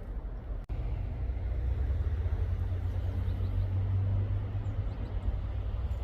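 A steady low rumble, with a few faint high chirps in the middle. It drops out for an instant under a second in.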